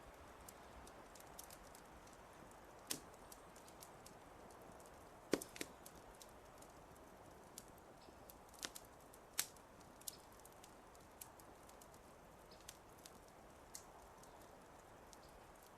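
Wood fire crackling in a fireplace: scattered sharp pops and snaps at irregular intervals, the loudest about five seconds in, over a soft steady hiss.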